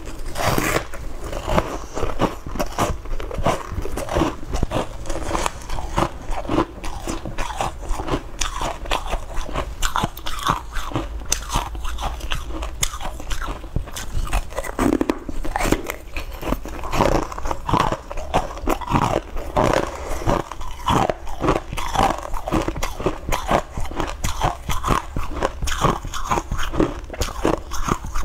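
Close-miked biting and chewing of pale green, porous round cakes, with a dense run of crackly crunches.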